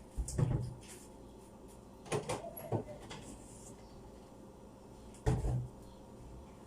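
Knocks and bumps of a refrigerator's door and its contents being handled, in three short bursts.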